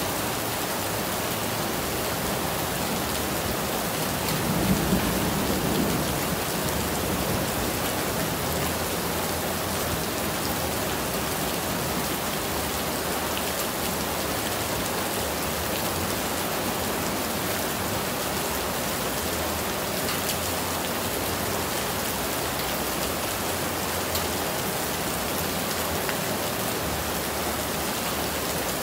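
Steady rain falling, an even hiss of drops, with a brief louder low swell about five seconds in.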